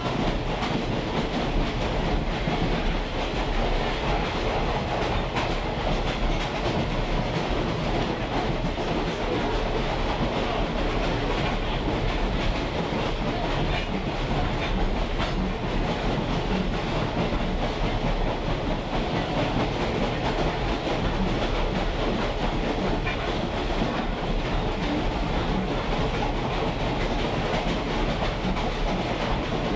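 Moving train heard from a riding caboose: steady rumble of the car's wheels rolling on the rails, with rail clatter.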